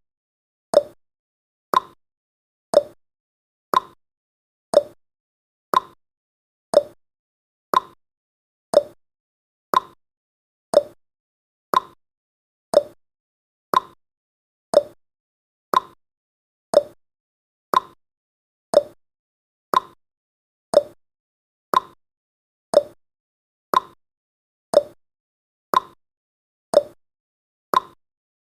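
Clock-tick sound effect of a countdown timer, one short tick every second, alternating a higher and a lower tick like a tick-tock.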